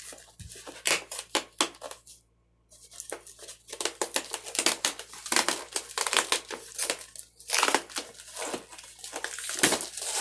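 Packaging crinkling and rustling as parts are unwrapped and handled, with many small knocks and clicks and a brief pause about two seconds in.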